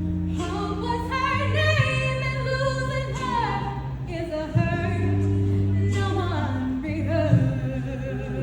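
A song: a woman's voice singing two long phrases over sustained low accompaniment.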